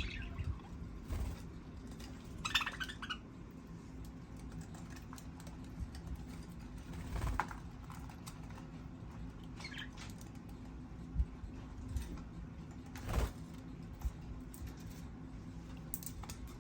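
Small pet birds nibbling and pecking at bok choy, with scattered small clicks and ticks from beaks and feet and a couple of short chirps, over a steady low hum.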